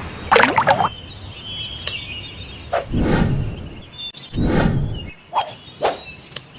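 Short bird calls over noisy background, with two louder bursts of noise about three and four and a half seconds in; the sound breaks off abruptly several times.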